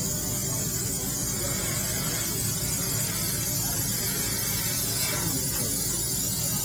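Steady hiss over a low hum from a fiber laser cutting machine at work.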